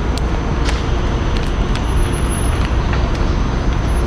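Steady low rumble of street traffic, with a few light clicks over it.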